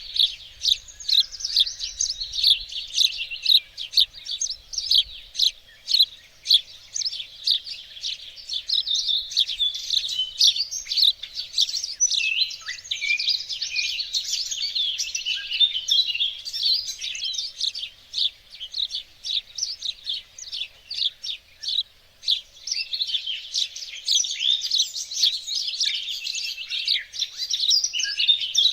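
Songbirds chirping and singing together, a dense run of quick, high, overlapping notes that thins out for a few seconds past the middle.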